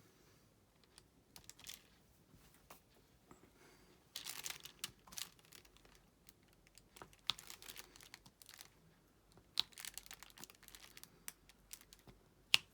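Diamond painting work: the plastic cover film on the canvas and the drill tray crinkle, with scattered small clicks as drills are picked up and pressed down. The crinkling comes loudest in patches, and a sharper click lands near the end.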